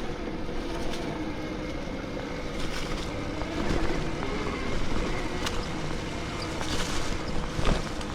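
Bafang BBSHD mid-drive e-bike motor running at 72 volts under way, a steady whine over wind on the microphone and tyre noise, with a few sharp knocks from the bike passing over bumps.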